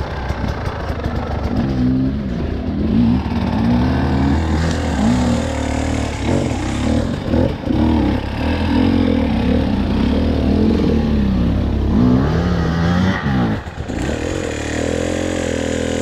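Off-road motorcycle engine revved up and down over and over under load, its pitch rising and falling, dipping briefly near the end before holding steadier and higher.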